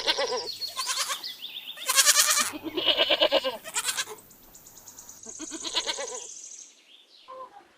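Goats bleating, a series of wavering bleats one after another that stop shortly before the end.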